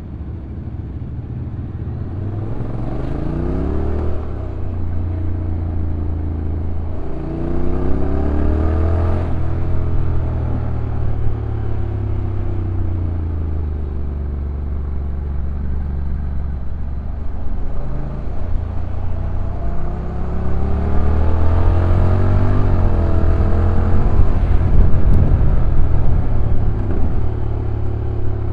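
A Honda NC750X DCT's parallel-twin engine heard from on board the moving motorcycle, with wind rush. The engine note climbs and then falls back sharply about three times, as the rpm rises and the dual-clutch transmission shifts.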